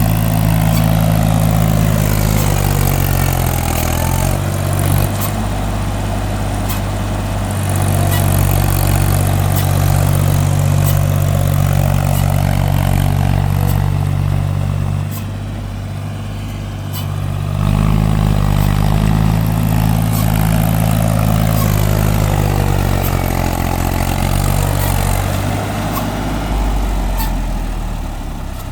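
Mahindra 275 DI TU diesel tractor engine running hard while driving a Sonalika rotavator. Its speed sags briefly about four seconds in, then drops and quietens for a couple of seconds past the middle before climbing back up.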